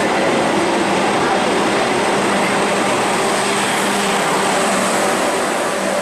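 Passenger train coaches rolling past close by, a loud steady rumble of wheels on rail with a faint hum.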